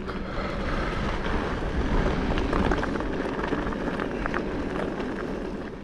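Wind buffeting the microphone of a mountain biker's camera as the bike rolls along a dirt trail, with a steady low rumble and scattered small rattles and clicks from the tyres and bike.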